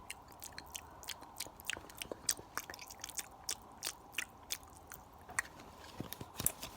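Close-miked ASMR mouth sounds: a fast, irregular run of wet clicks and smacks, several a second.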